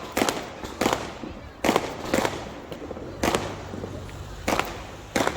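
Fireworks going off with sharp bangs, about seven in all, coming unevenly half a second to a second apart.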